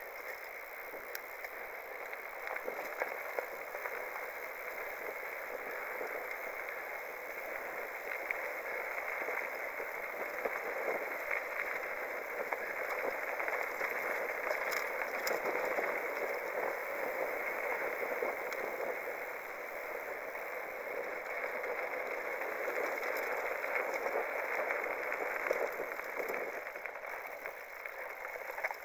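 Mountain bike rolling along a dirt trail: a steady rushing noise of tyres on dirt and stones, with a few small clicks, a little louder through the middle.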